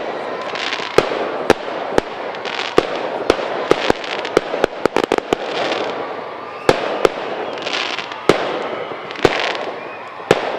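Fireworks display: a stream of sharp bangs from shells bursting in the sky, some coming in quick clusters, over continuous hissing and crackling.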